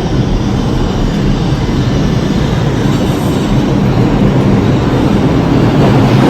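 New York City subway train running through the station, a steady loud rumble of wheels on rail that slowly grows louder.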